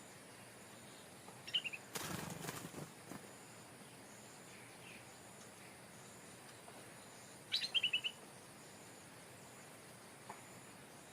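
Stripe-throated bulbul giving two short bursts of quick chirping notes, one about a second and a half in and a louder one past seven seconds. A brief rustling noise comes in between.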